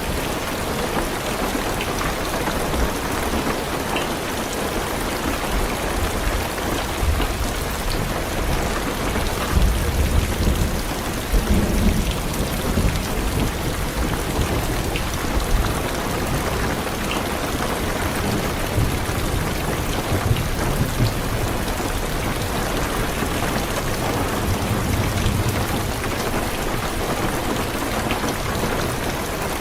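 Heavy rain falling steadily on a car's roof and windows, heard from inside the car. Low rolls of thunder come in about ten seconds in and again around twenty seconds in.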